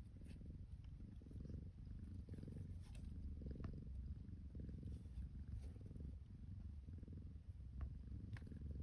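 Burmese kitten purring steadily close to the microphone, with a few faint clicks over it.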